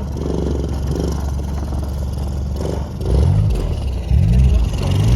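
A vehicle engine running steadily, then revved three times in the second half, its pitch climbing with each rev.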